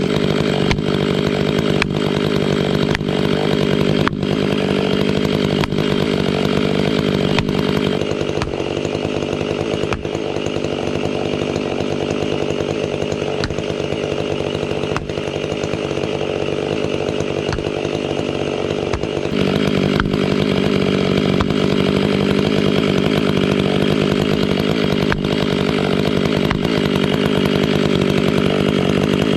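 A large two-stroke chainsaw runs at full throttle, cutting steadily through a big fir trunk. Its steady engine note breaks up about a quarter of the way in and steadies again about two-thirds of the way through.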